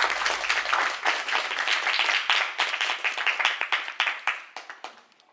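Theatre audience applauding: dense clapping that thins out and dies away near the end.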